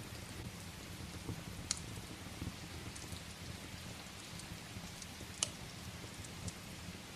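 Steady rain against a window mixed with a crackling wood fire. Scattered sharp pops stand out, two loudest ones about 2 and 5½ seconds in.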